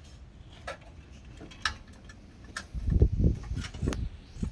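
A few scattered sharp clicks, then about two seconds of loud, irregular low thumps and rumbling, loudest about three seconds in.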